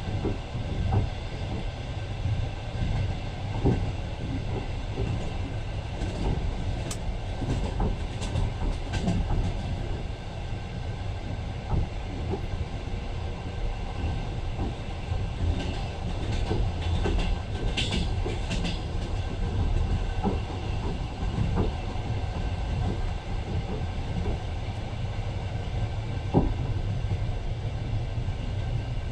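Passenger train running, heard from inside the carriage: a steady low rumble with scattered knocks and rattles from the wheels on the track.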